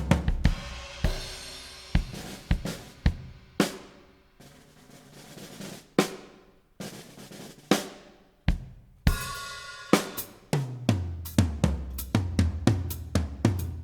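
Drum-heavy music: a drum-kit beat of bass drum, snare, hi-hat and cymbals. It thins to scattered single hits with gaps in the middle, and the full beat with a deep bass line comes back about ten seconds in.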